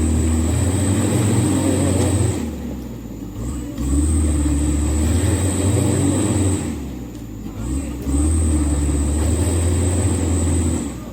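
Mitsubishi Canter HD 125PS truck's diesel engine revved hard three times, each surge held for about three seconds with short drops between, as the heavily loaded truck strains to push through slippery mud.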